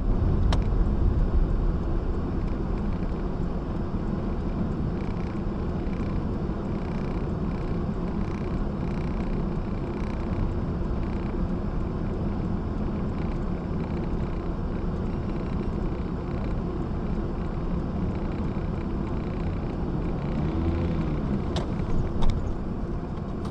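Steady rumble and road noise of a moving vehicle, heavy in the low end. There is a sharp click about half a second in, and two more sharp clicks near the end.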